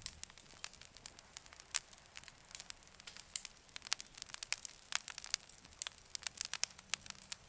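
Campfire crackling: many small, irregular snaps and pops of burning wood.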